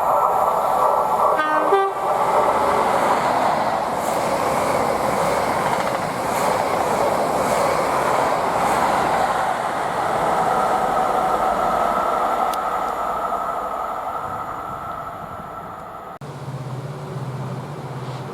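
A train passing close by, a loud steady rush of wheel and rail noise, with a short horn note about a second and a half in. About two seconds before the end the sound cuts abruptly to a quieter scene with a low steady engine hum.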